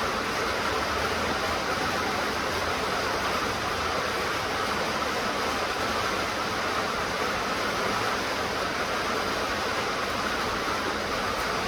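Steady rain falling, an even hiss of water with no single drops or thunder standing out.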